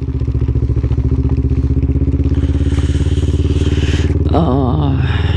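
Yamaha R3's parallel-twin motorcycle engine running at a steady speed. About four seconds in, a brief wavering, warbling sound rises over it.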